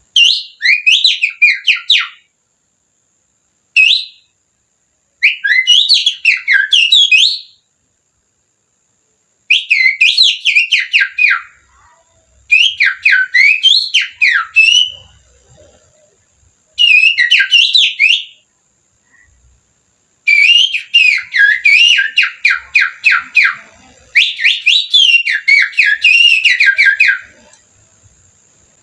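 Little-finger whistling imitating the song of an oriental magpie-robin (kacer), used as a lure to rouse a caged kacer. It comes in about eight quick phrases of rapid, up-and-down whistled notes, each a couple of seconds long, with short pauses between them.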